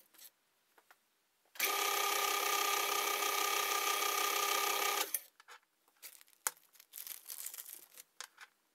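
Small metal lathe running with a steady whine and hiss for about three and a half seconds while a chipped 6 mm end mill bores out the throttle-shaft bushings of a Zenith 36 1V carburettor. It starts and stops abruptly and is followed by a few faint clicks.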